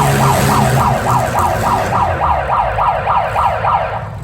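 Electronic emergency-vehicle siren in a fast yelp, each sweep falling in pitch, about three and a half a second, cutting off near the end. A low steady drone sits under it in the first second.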